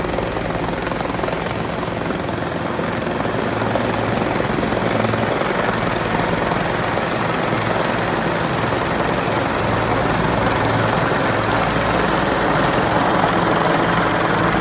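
Helicopter flying, a steady dense rush of rotor and engine noise that grows slowly louder.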